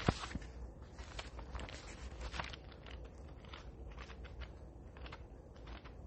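Faint handling noises of someone looking up a Bible passage: a sharp knock at the start, then small irregular clicks and rustles.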